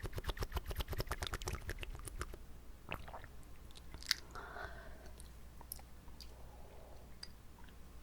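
Wet mouth sounds from water held and swished in the mouth: a rapid run of wet clicks for about the first two seconds, then scattered clicks and a brief squish.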